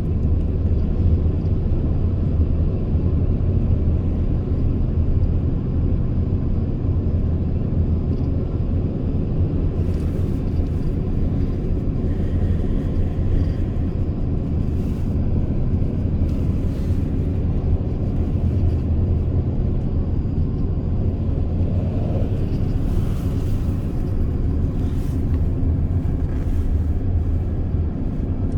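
Mercedes Sprinter V6 van driving steadily, its engine and road noise a constant low rumble. Faint light ticks come through from about a third of the way in.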